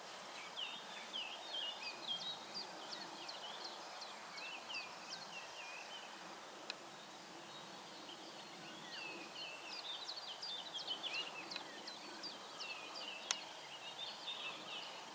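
Bird song: rapid runs of short, high, sliding chirps, with a pause in the middle, over a steady faint outdoor hiss. Two sharp clicks cut in, the second near the end and the loudest sound.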